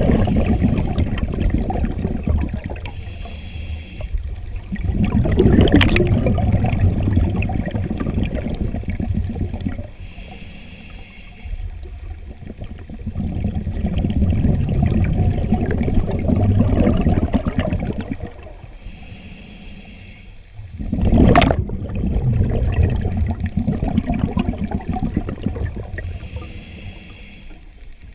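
A scuba diver breathing through a regulator underwater. Several slow breaths: each exhale is a rush of rumbling, gurgling bubbles lasting a few seconds, and each inhale is a short hiss from the regulator.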